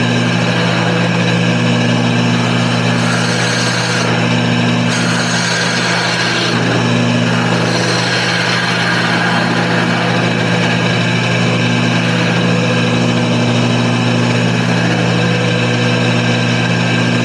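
Wood lathe running, its motor giving a loud, steady hum with a noisy hiss above it.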